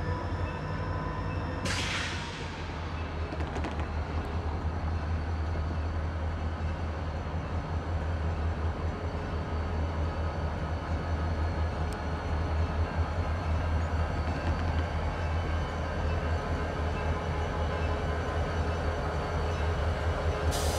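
A freight train with diesel locomotives running past: a steady low engine rumble mixed with the rolling noise of the cars.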